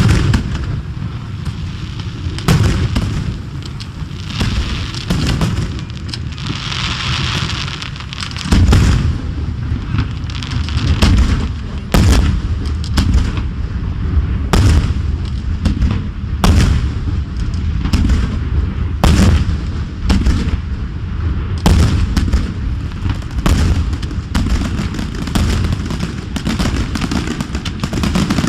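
Fireworks display: aerial shells bursting in a steady run of booms over a continuous low rumble. A hissing fizz comes about seven seconds in.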